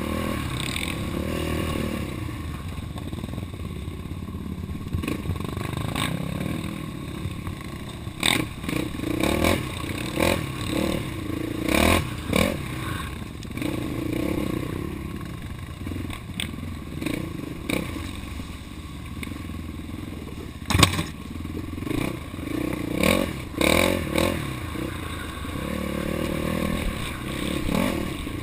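Off-road vehicle engine running with the throttle rising and falling, with frequent sharp knocks and clatters, more of them from about eight seconds in, as the machine rides over rough trail.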